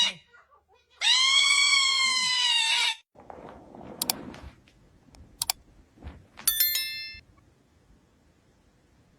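Cat letting out a long, loud yowl lasting about two seconds, just after a brief call. A few sharp clicks and knocks follow, then a short ringing tone.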